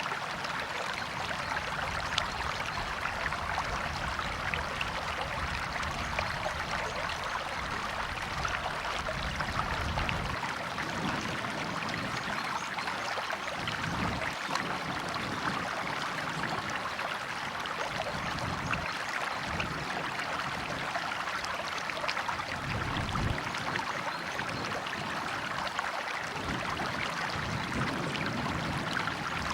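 River water flowing and splashing steadily, an even rushing with a shifting low rumble underneath.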